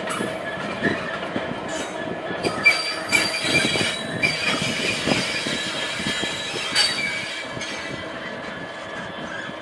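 Coal train's wagons creeping along, their wheels squealing on the rail with several high overlapping tones, with clanks and knocks from the wagons. The squeal is strongest in the first half and again briefly near the end.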